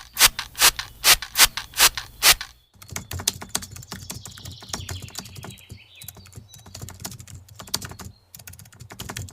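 A quick run of loud, sharp knocks, about two and a half a second, stopping about two and a half seconds in, followed by quieter, busy scratching and clattering.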